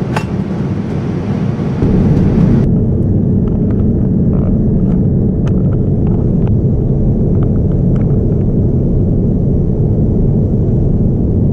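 Steady low rumble of a Boeing 787-9 airliner heard inside the cabin: engine and airflow noise. It steps up in level about two seconds in, after which the higher hiss drops away, leaving a deep roar with a few faint clicks.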